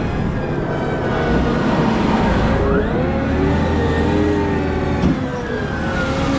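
Caterpillar 972M XE wheel loader working, its diesel engine rumbling steadily under whining tones that rise and fall in pitch again and again as it changes speed and load.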